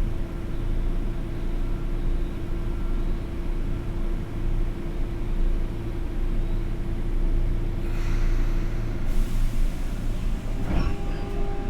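Inside a Sotetsu 8000 series train car with a Hitachi GTO-VVVF drive: a steady low rumble with a steady electrical hum over it. A short hiss comes about 8 seconds in, and a new, higher pair of steady tones starts near the end.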